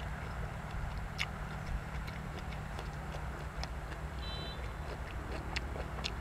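A person chewing food close to the microphone, with scattered sharp wet clicks of lips and teeth over a steady low rumble. A brief high trill comes a little past four seconds.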